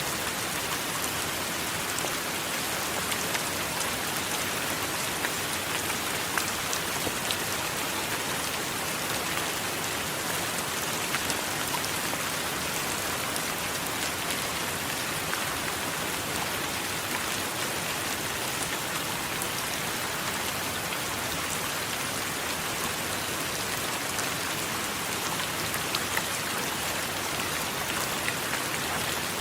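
Steady rain falling: a dense, even hiss with scattered small drop ticks.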